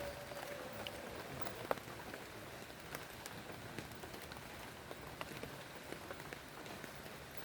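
Steady rain falling, with many separate drops tapping close by and one sharper drip about two seconds in.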